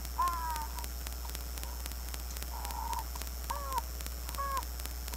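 A bird calling: about five short, arched caw-like cries in quick succession, over a steady electrical hum and crackle from the microphone.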